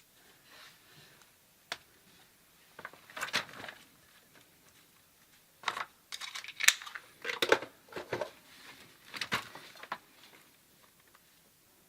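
Hands working with small plumbing parts and tools: a sharp click, then several bursts of crinkly rustling, scraping and clicking from about three to ten seconds in.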